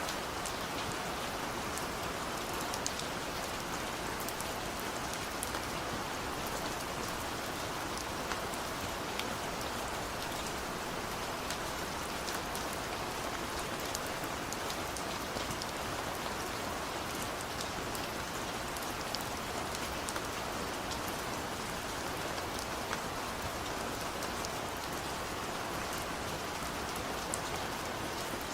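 Heavy rain falling steadily, a constant hiss with scattered sharp drop ticks.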